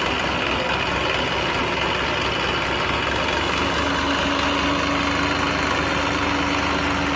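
Massey Ferguson tractor's diesel engine running steadily. A steady hum joins in about halfway through.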